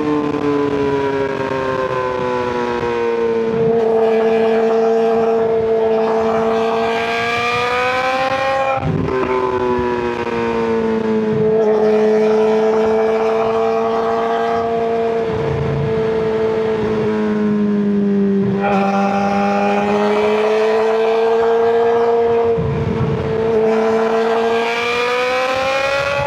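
2023 Suzuki GSX-R600's inline-four engine through an M4 slip-on exhaust, running at sustained revs. Its pitch rises and falls with the throttle, with a few abrupt changes in engine speed.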